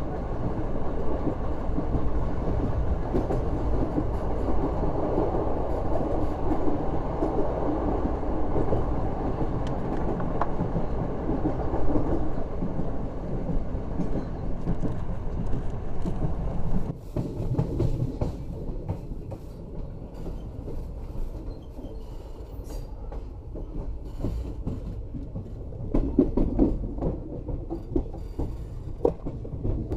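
Passenger train running on the line, heard from aboard: a steady rumble with clattering wheels on the rails. About halfway through the noise drops suddenly to a quieter run with scattered clicks and a few louder knocks.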